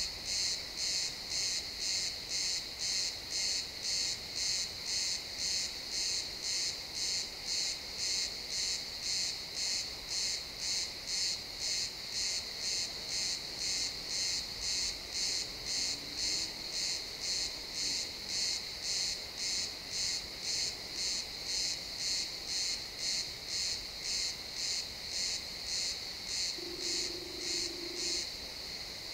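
Crickets chirping in a steady, even rhythm of about one and a half high-pitched chirps a second. The rhythmic chirping stops near the end, leaving a fainter continuous trill.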